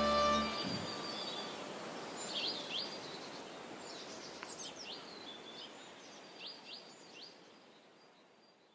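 Birds chirping, with short rising calls repeated in little runs over a steady outdoor hiss. The whole thing fades out gradually. A music track ends about half a second in.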